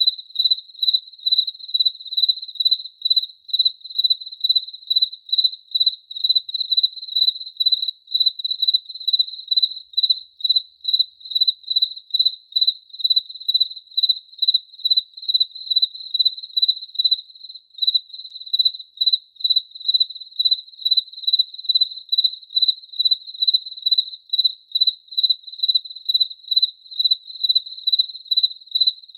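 A cricket chirping steadily, a high, pure-toned chirp repeated evenly about twice a second.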